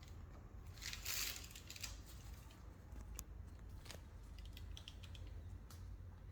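A pet parakeet bathing in shallow water: a brief burst of splashing or wing-fluttering about a second in, then scattered light taps and clicks.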